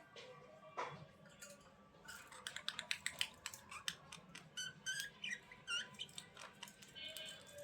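Budgerigars chirping and chattering: a quick run of short high chirps and clicks that grows busy about two seconds in.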